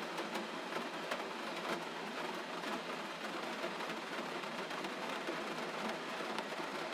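Gentle steady rainfall: an even hiss with many small drop ticks scattered through it.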